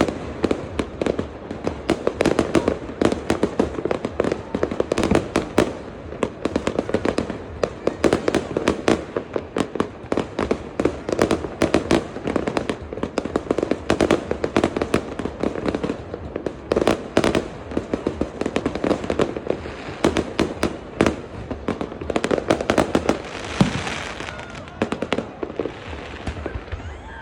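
Fireworks display: a rapid, continuous barrage of bangs and crackles, several a second, thinning out near the end.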